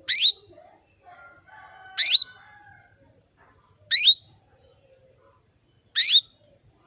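Female canary in breeding condition calling to a male: a short, loud rising call repeated four times about every two seconds, with a faint string of quick short notes after two of the calls.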